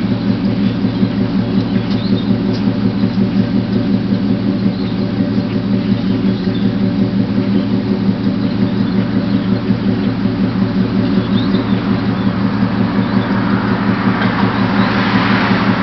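1977 Chevrolet C10 V8 idling through its Flowmaster exhaust with an even, pulsing beat, the engine still cold and warming up. Toward the end a rising rushing noise joins in.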